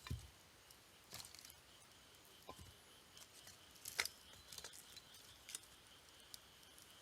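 Wood campfire crackling softly: scattered sharp pops and snaps, the loudest about four seconds in, over a faint steady high-pitched tone.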